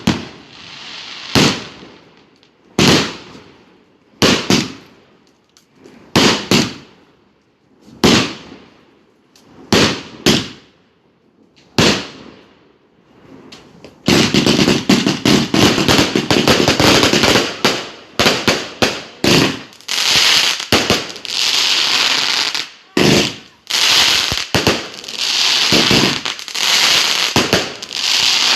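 Fireworks going off: single sharp bangs about every one and a half seconds, each trailing off in a short crackle. About halfway through they give way to a dense, continuous barrage of rapid crackling bangs.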